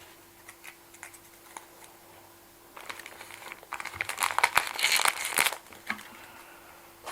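Close-up clicking and crinkling from objects being handled: scattered light clicks, then a loud, dense stretch of crinkling and clicking lasting about three seconds, starting a little under halfway through.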